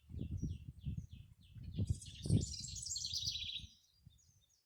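Small birds chirping and singing: a run of short, falling high chirps about three a second, then a dense burst of song from about two seconds in. Under it is an uneven low rumble that fades out near the end.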